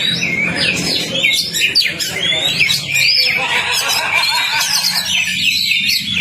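Oriental magpie-robin (kacer) singing a fast, unbroken stream of varied whistles and chirps, used as lure song to get a silent magpie-robin singing.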